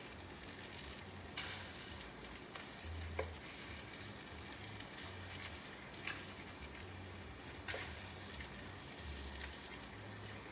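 Pork belly sizzling in a pot as its water boils down: a faint steady hiss that swells up twice and slowly eases off, with a few light clicks.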